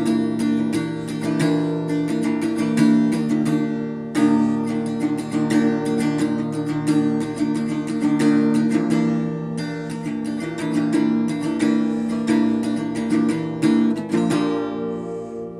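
Acoustic guitar strumming chords in a lofi folk song, with no singing; near the end a last chord rings out and fades.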